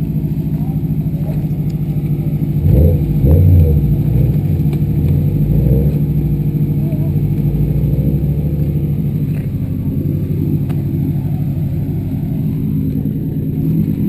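Subaru Impreza rally car's flat-four boxer engine idling steadily while the car stands stopped, briefly louder about three seconds in.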